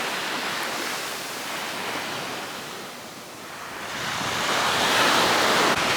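Sea surf washing on a beach, a steady rush that eases off a few seconds in and then swells up again.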